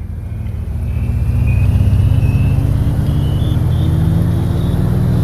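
A motor vehicle's engine running, a low hum that grows louder over the first couple of seconds and then holds steady, as if it is drawing near.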